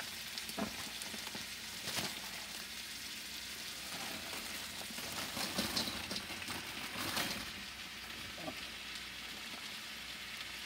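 Frozen vegetables sizzling steadily in hot coconut oil in a wok, with crinkling of a plastic freezer bag and a few short knocks as frozen broccoli is tipped into the pan.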